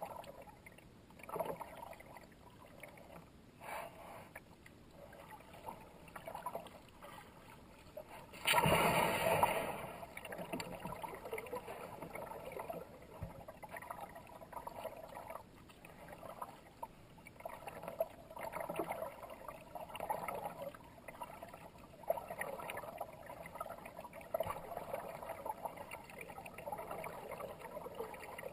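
Kayak paddle blades dipping and pulling through the water in repeated strokes, with water splashing and gurgling. A louder splash comes about nine seconds in.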